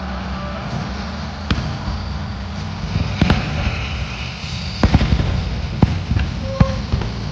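Fireworks exploding: scattered sharp bangs over a steady low background rumble, with a cluster of several bursts around three to five seconds in.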